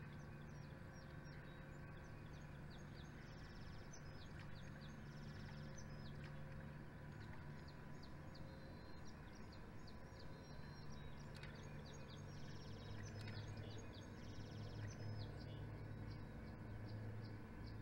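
Small birds chirping over and over in short, high notes, with a few quick buzzy trills, over a steady low hum that grows a little louder about two-thirds of the way in.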